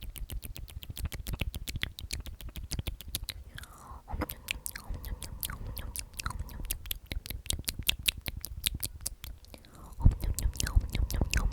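'Omnomnom' whispered over and over close to a sensitive microphone: a dense run of wet lip and tongue clicks and smacks, several a second, with a heavier, louder burst of them near the end.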